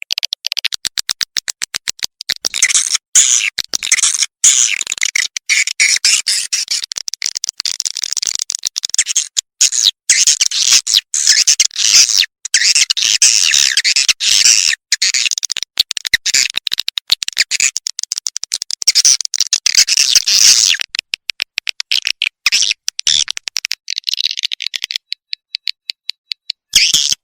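Swiftlet lure recording: dense, rapid, high-pitched chirping and twittering of swiftlets mixed with quick clicks, broken by abrupt short gaps. About three-quarters of the way through it thins to sparse clicks, and the dense chirping starts again near the end. It is a call track played to draw swiftlets into a nesting house.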